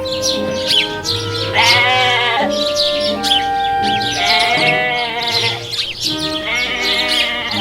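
Sheep bleating three times, each call quavering, over background music with long held notes.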